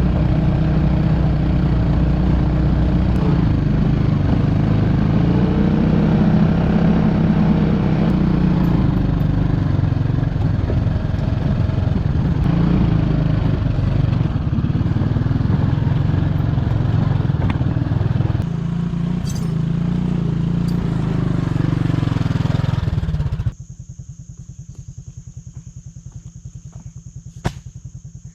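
Four-wheeler (ATV) engine running, its pitch rising and falling as it hauls a load of concrete bags up a hill. About 23 seconds in it cuts off suddenly to a much quieter steady low hum, with a single sharp click near the end.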